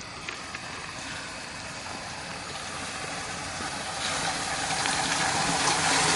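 Steady rushing of fast-moving floodwater, growing louder through the last couple of seconds.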